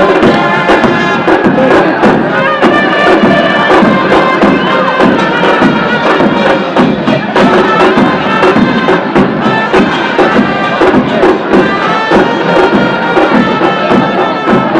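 A football supporters' band in the stands: many voices chanting in unison over steady drum beats and held wind-instrument notes.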